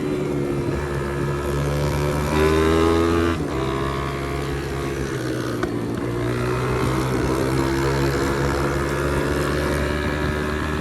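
Pit bike engine under way, revving up about two seconds in and easing back after about a second, then pulling steadily with a slowly rising pitch.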